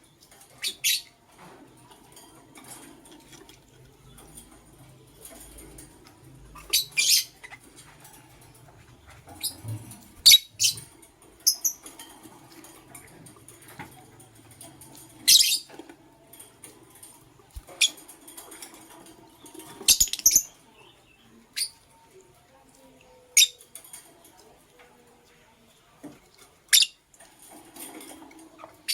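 Lovebirds giving short, shrill chirps, about a dozen scattered irregularly through the stretch, some in quick pairs.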